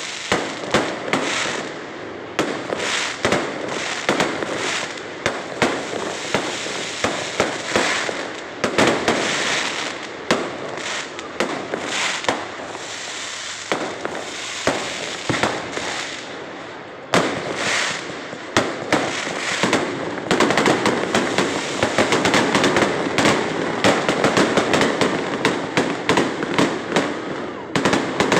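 Aerial fireworks display: shells bursting in the sky in a steady string of bangs and crackles, building to a dense, near-continuous barrage over the last several seconds.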